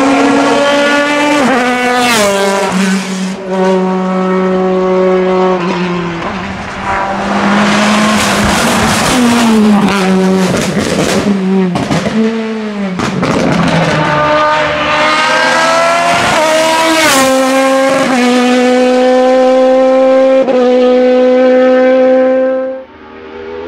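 Hillclimb race car engine at full throttle, repeatedly climbing in pitch and dropping at each gear change, with a stretch of crackling and downshifts about halfway through. The sound cuts away sharply near the end.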